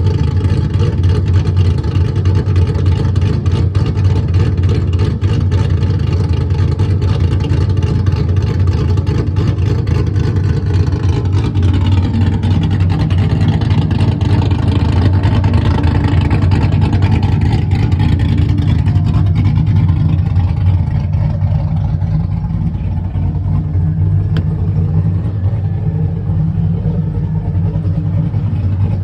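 Cammed 6.0-litre V8 in a C5 Corvette idling through a straight-piped exhaust with no mufflers.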